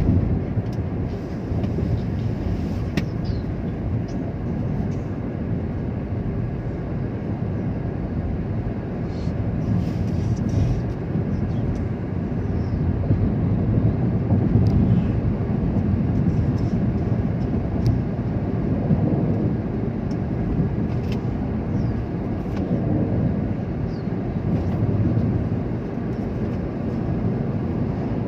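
Steady low rumble of a vehicle driving along a road: engine and tyre noise, swelling a little in the middle.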